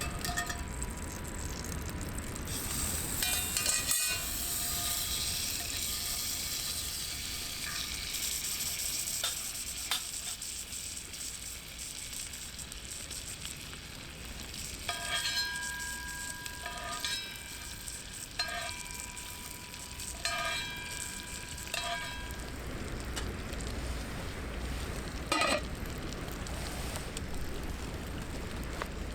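Food sizzling in a hot pan over a campfire, then a series of short ringing clinks of a metal utensil against metal cookware, with a single sharper knock near the end.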